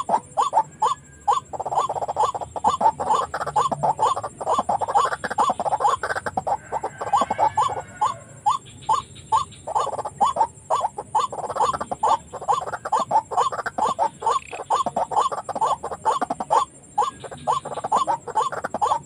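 White-breasted waterhen calls: rapid, evenly repeated notes at about four a second, with two short breaks.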